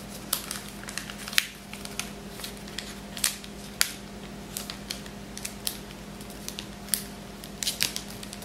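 A sheet of origami paper being folded and creased by hand, with an irregular scatter of sharp crinkles and taps.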